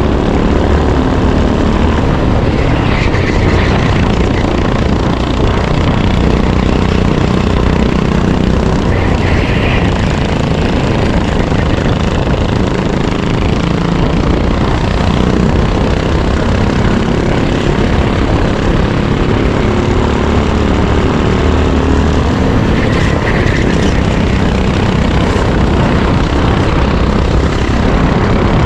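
Racing kart engine running hard, heard from an onboard camera, its pitch rising and falling as the kart accelerates out of corners and lifts into them.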